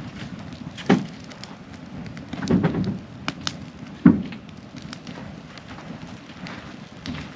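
Wood campfire burning with a steady hiss and scattered sharp crackling pops, with three dull knocks about one, two and a half and four seconds in.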